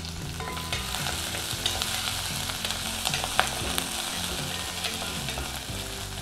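Tempering of ginger, green chili, dried red chili and curry leaves sizzling steadily in hot oil in a nonstick pan, stirred with a wooden spatula, with scattered sharp clicks.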